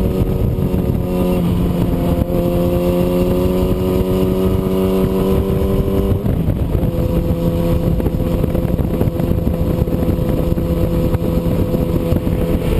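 Engine running at steady high revs. Its pitch shifts about a second in, creeps slowly up, drops about six seconds in and then holds steady.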